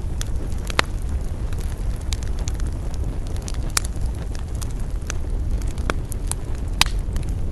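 Wood campfire burning with irregular sharp crackles and pops over a steady low rumble of wind.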